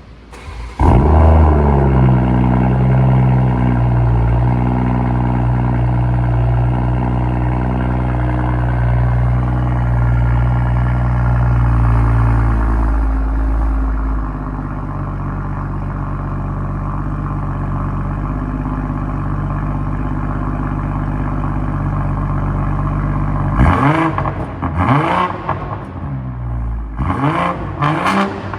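2023 BMW M340i's turbocharged 3.0-litre inline-six, muffler deleted, starting from cold about a second in. It fires abruptly, holds a raised cold-start idle, then settles to a lower idle about halfway through. Near the end it is revved several times in quick blips, each rising and falling sharply.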